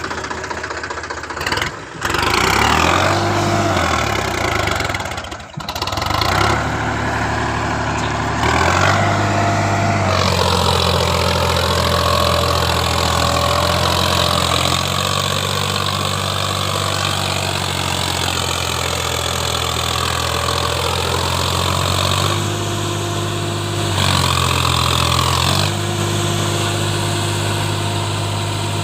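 Sonalika DI 47 RX tractor's diesel engine pulling under load through sand. The engine note shifts several times, dipping briefly twice in the first six seconds and stepping up and down in pitch later on.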